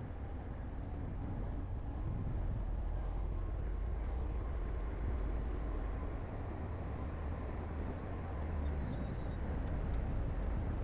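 Heavy diesel construction machinery running steadily, a deep engine sound that grows a little louder about two seconds in.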